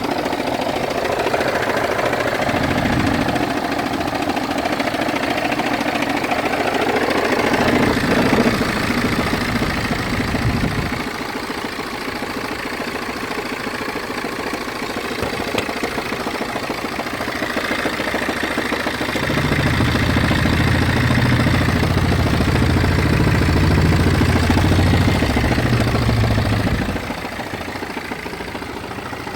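BMW 320d F30's four-cylinder diesel engine idling with a horrible grinding, juddering rattle that can be felt through the clutch pedal. The judder comes and goes as the engine's note changes, growing heavier and lower in the later part before easing off near the end; the noise disappears when the engine is revved and returns at idle.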